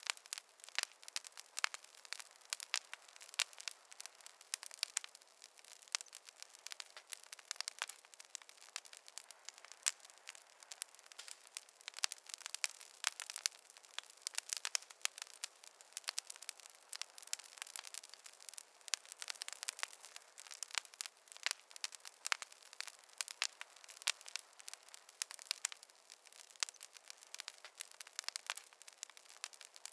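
Wood fire crackling, with many quick, irregular snaps and pops over a faint hiss and no low rumble.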